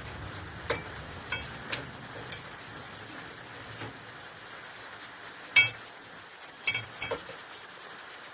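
Irregular light metal clinks of tools and small parts being handled during work on a diesel engine's fuel injection pump, the loudest a little past halfway and a quick pair near the end.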